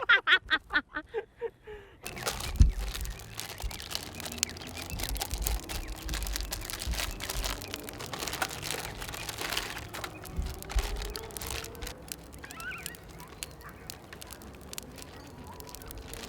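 A brief tail of the intro music for the first two seconds, then outdoor sound: an uneven low rumble of wind on the microphone with many scattered clicks and crackles. A short bird call comes about two-thirds of the way through.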